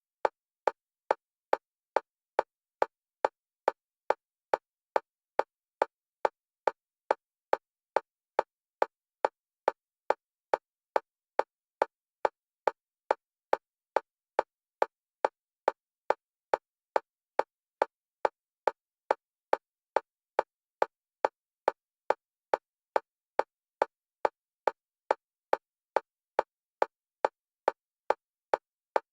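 Metronome clicks, one pitch, evenly spaced at about two a second and alternating between the left and right stereo channels: an EMDR bilateral stimulation track.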